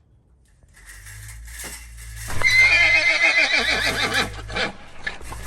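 A loud, quavering, whinny-like call that falls in pitch, lasting about two seconds from a little past the middle, over a steady low hum.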